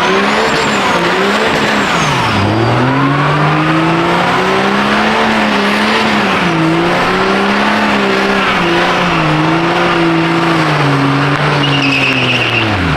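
Diesel truck doing a burnout: the engine is held at high revs that rise and fall, over a constant tyre squeal, and the revs drop off sharply near the end.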